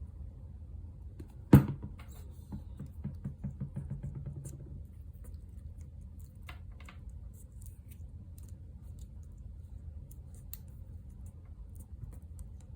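Paper craft pieces and supplies handled on a desk: one sharp knock about a second and a half in, then a quick run of light taps and paper rustles, and a few faint ticks later, over a low steady hum.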